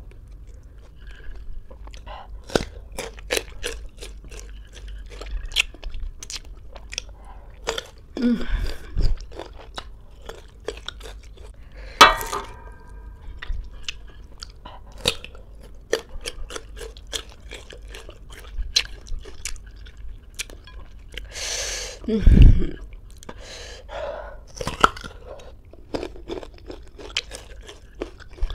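Close-miked chewing of small, firm green ambarella fruits, with many sharp crunches and a few louder knocks.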